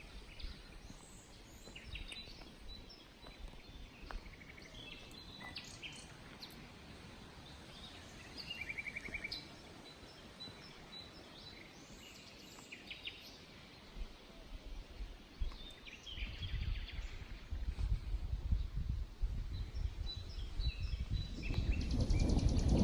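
Birds chirping and calling in scattered short phrases, with a brief trill near the middle. About two-thirds of the way in a low rumble of thunder begins and builds, growing louder toward the end.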